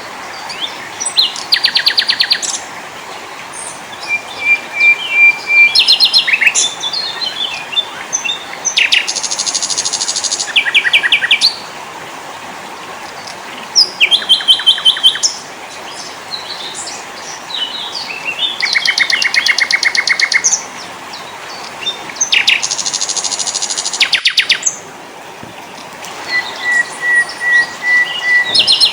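Several small songbirds singing: rapid high trills that come in phrases every few seconds, with scattered chirps and a couple of strings of short, even whistled notes, over a steady background hiss.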